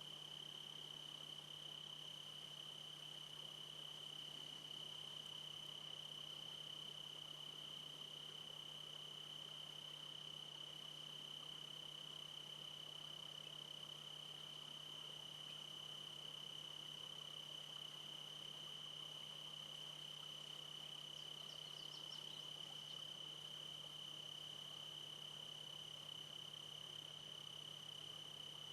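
Faint, steady, unbroken high-pitched trill of crickets, holding one pitch without a break.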